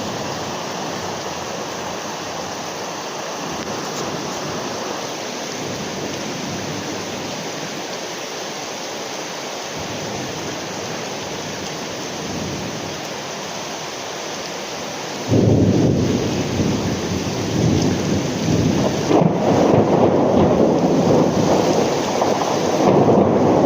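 Heavy rain pouring steadily; about fifteen seconds in it turns suddenly louder and deeper and keeps on at that level.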